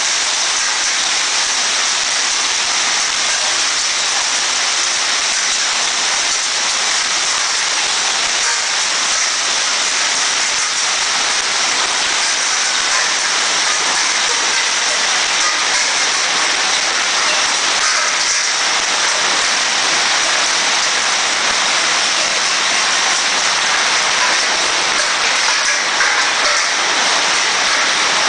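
Hailstorm: hailstones and heavy rain pelting down in a loud, steady, unbroken patter.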